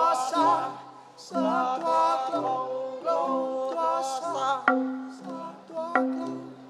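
Bahnar folk song: a singer's voice over a t'rưng bamboo xylophone ensemble with a repeating low note pattern. The voice drops out about two thirds of the way through, leaving crisp struck bamboo notes.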